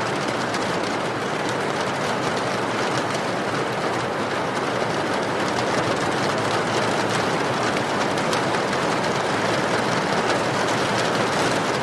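Steady rain: an even hiss with faint scattered drop ticks, holding the same level throughout.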